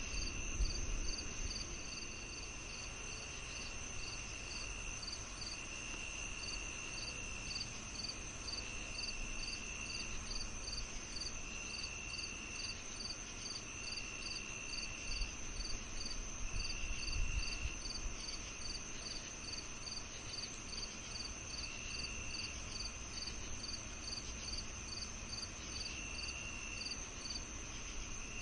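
A summer-evening insect chorus of crickets and other insects. One keeps up a continuous high trill, another chirps steadily about twice a second, and a lower trill comes and goes in stretches of about a second. A faint low rumble sits underneath.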